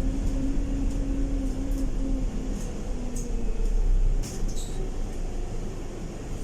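Inside a moving Scania K230UB single-deck bus: the engine and ZF automatic driveline give a steady low rumble with a whine that steps down in pitch in the first couple of seconds, and the cabin makes scattered light rattles. The rumble drops off about four seconds in.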